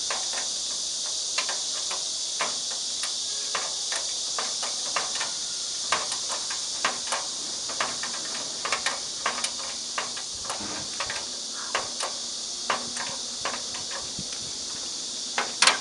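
Scattered small clicks and knocks of welding cables and connectors being handled and fitted, over a steady high hiss, with a louder cluster of clicks near the end.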